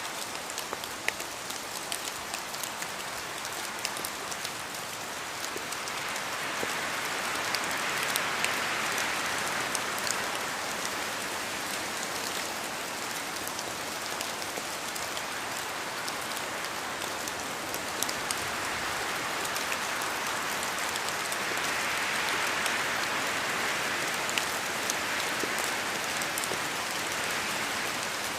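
Steady rain falling in a forest, with individual drops ticking close by, and wind in the trees swelling and dying away twice.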